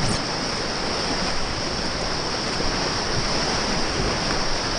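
Steady rushing of river whitewater.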